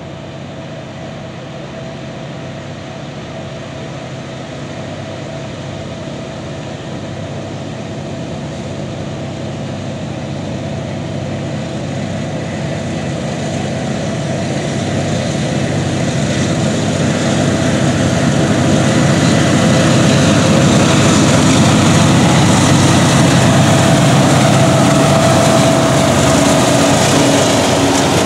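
Freight train's diesel locomotives, Norfolk Southern leaders followed by a string of ex-BNSF engines, approaching and running by: a steady engine rumble with wheel-on-rail noise that grows louder over about twenty seconds, then holds as the locomotives pass close.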